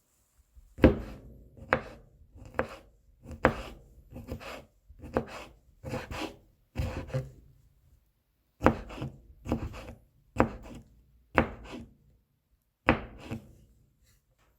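Kitchen knife chopping and mincing garlic cloves on a cutting board: about a dozen sharp knife strikes, roughly one a second, each followed by a short scrape, with a brief pause about halfway through.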